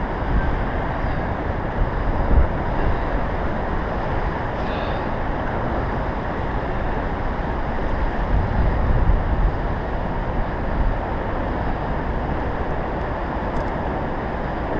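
Strong wind buffeting the microphone: a steady rushing noise with heavier gusts about two seconds in and again around eight to nine seconds.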